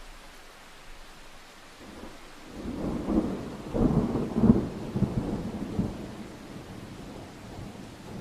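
Steady rain with a roll of thunder: a low rumble builds about two and a half seconds in, crackles loudest around the middle and dies away over the next few seconds.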